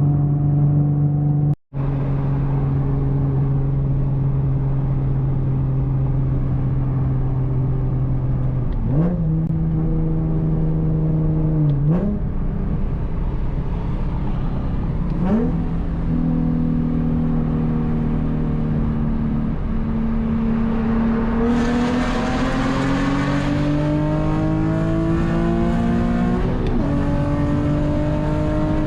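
Nissan 370Z's 3.7-litre V6 through a full Tomei exhaust, cruising steadily. The engine note jumps up quickly three times, like downshifts. Then it climbs steadily in pitch under hard acceleration, turning raspier as the revs build.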